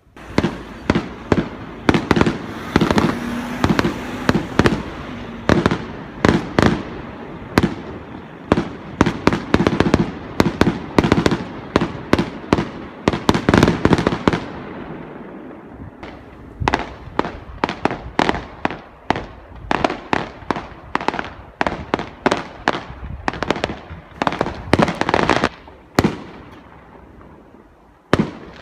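Aerial fireworks shells bursting in a rapid barrage, many sharp bangs over a continuous rumble. The bangs thin out briefly about halfway through, then come thick again.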